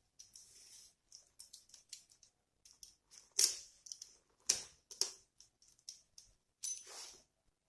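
Pliers and iron wire being handled on a work surface: irregular sharp clicks and clacks, the loudest about three and a half and four and a half seconds in.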